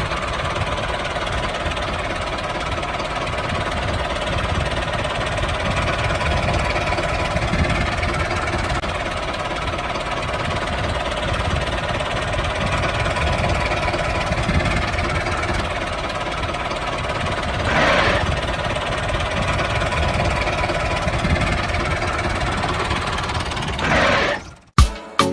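Homemade mini tractor running steadily with a fast, even mechanical clatter, swelling briefly about 18 seconds in and cutting off abruptly shortly before the end.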